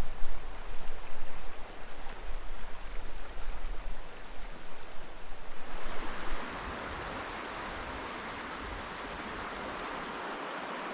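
Rushing river water. For about the first six seconds it is uneven and buffeting with a low rumble; then it changes abruptly to a steady, even rush.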